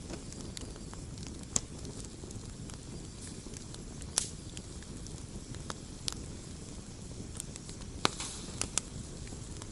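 Campfire burning with a steady low rumble and irregular sharp pops and crackles of the wood, the loudest pops at about a second and a half, four seconds and eight seconds in, with a short flurry of crackling just after eight seconds.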